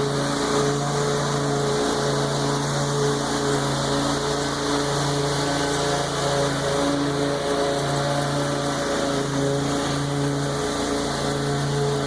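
Lawn mower engine running steadily while cutting tall, overgrown grass, its note dipping briefly every few seconds under the load.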